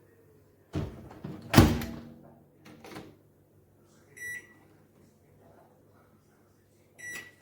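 Cecotec GrandHeat 2590 built-in microwave. Its door clunks shut about a second in, with a sharp knock the loudest sound. Its control panel then gives two short beeps, a few seconds apart.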